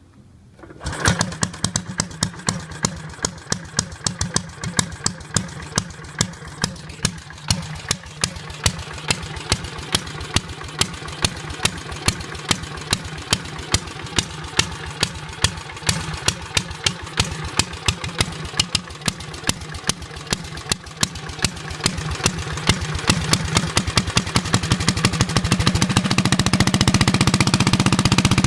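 Honda GX270 single-cylinder four-stroke kart engine with upgraded valve springs catching about a second in on its first start, then running with loud, regular pops. From about two-thirds of the way through it speeds up and gets louder, the pops coming closer together.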